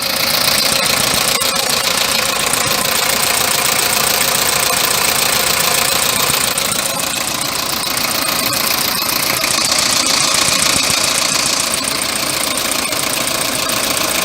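Toyota 1KZ-TE 3.0-litre four-cylinder turbodiesel idling steadily with a diesel clatter.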